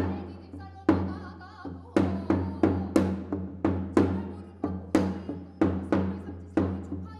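Drum beaten in a steady rhythm for a Korean shamanic gut ritual: a loud stroke about once a second with lighter strokes between, over a low steady drone.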